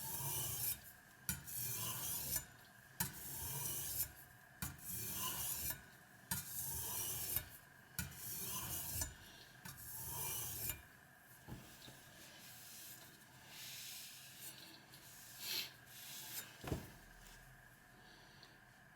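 A kitchen knife's steel edge being stroked across a wet Spyderco medium-grit aluminium oxide bench stone, a rasping scrape about once a second. The strokes turn softer and sparser about eleven seconds in.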